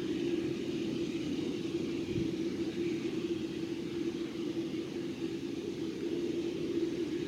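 Boeing 747-8F jet engines running steadily: an even, unchanging drone with a strong steady hum under a hiss.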